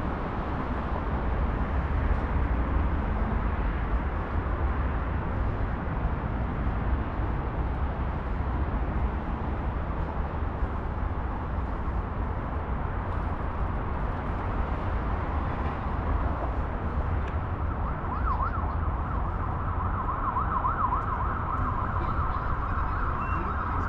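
Steady rumble of heavy road traffic, with an emergency vehicle's siren starting to wail, rising and falling, near the end.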